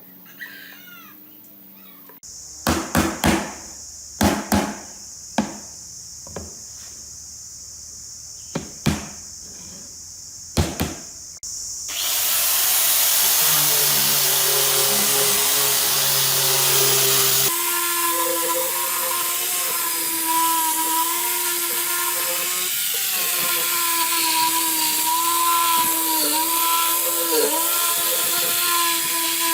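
Workshop tool sounds: a series of sharp knocks, then a steady hiss for about five seconds, then a power tool running with a steady whine.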